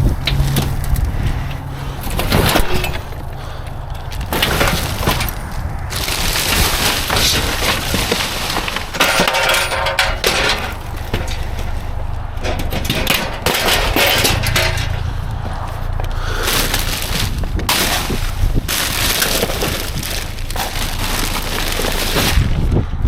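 Junk being shifted and thrown around inside a metal dumpster: repeated crashes, clatter and scraping of debris, with a low steady hum underneath.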